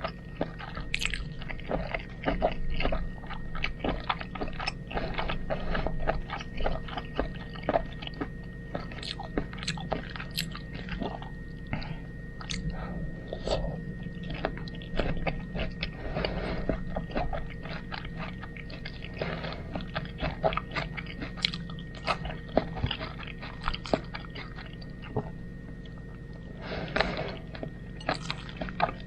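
Close-up chewing of home-cooked spaghetti: a steady run of wet mouth clicks and smacks, many per second.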